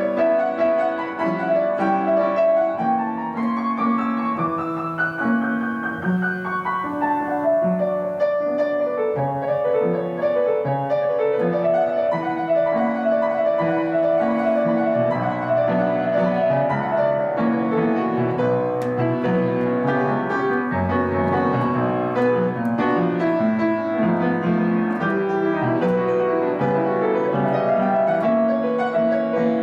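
Piano and harp playing an instrumental jazz passage without vocals, the piano carrying busy melodic runs over chords.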